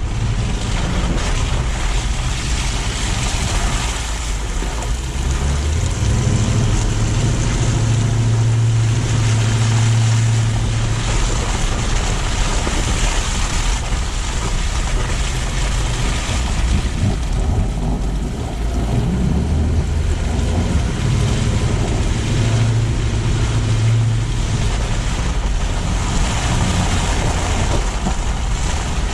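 Car driving: a steady low engine hum that swells and eases a few times, over continuous rushing road and tyre noise.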